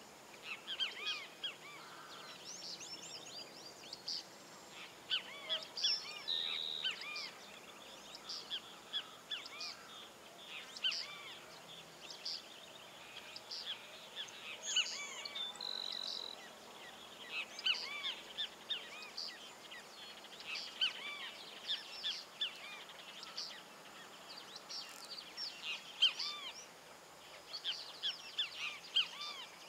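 Several small birds chirping and calling outdoors: a steady stream of quick, short chirps, with a few brief, steady whistled notes, over faint background noise.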